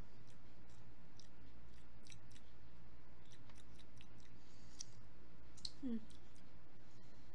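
A person chewing a soft little pumpkin muffin, with faint scattered wet mouth clicks. About six seconds in comes a brief falling hum from the throat.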